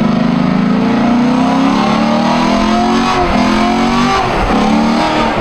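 Car engines revving hard and held at high revs, the pitch dropping briefly and climbing back a couple of times.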